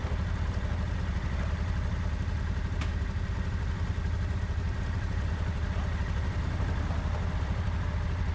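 Honda Deauville 700's V-twin engine running steadily at an even pitch.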